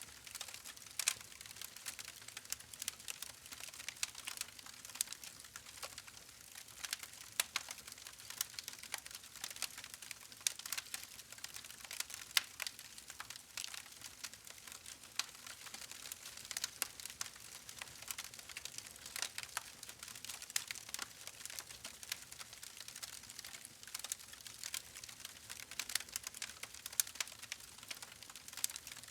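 Wood fire crackling: a constant scatter of small sharp pops and snaps over a soft hiss, with louder single cracks every second or two.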